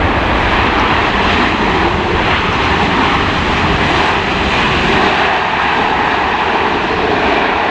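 Jet airliner engines heard close by, a loud, steady rush of noise that holds an even level throughout.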